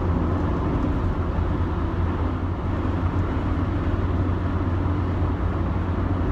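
Steady in-cabin drone of a 2005 Rover 25 GSi on the move: a low engine hum with tyre and road noise, unchanging throughout.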